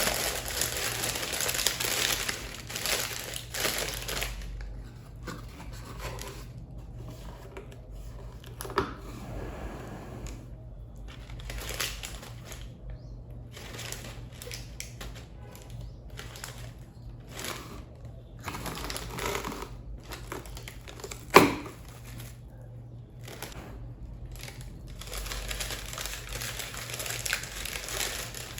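Plastic cling film crinkling and rustling as it is handled and stretched over sourdough in proofing baskets, busiest in the first few seconds. A single sharp knock comes past the middle, and a faint low hum runs beneath.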